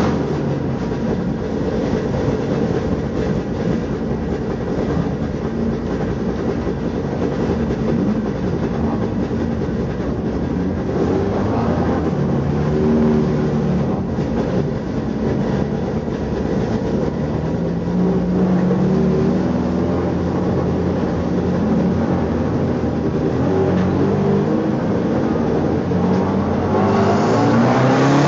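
Race car engine heard from inside the stripped, roll-caged cabin, running at low revs as the car rolls along, its note rising and falling gently now and then. Near the end the engine revs up sharply and drops back.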